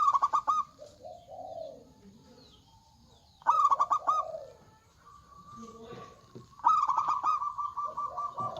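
Zebra doves (perkutut) cooing in answer to one another. Short runs of quick staccato notes come at the start and again about three and a half seconds in, then a longer run in the last two seconds, with softer, lower coos between them.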